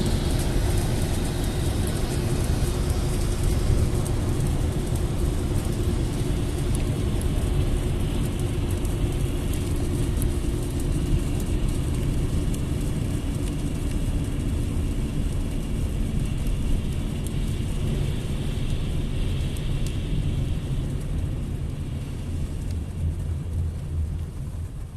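Steady low rumble of a vehicle, easing off over the last couple of seconds.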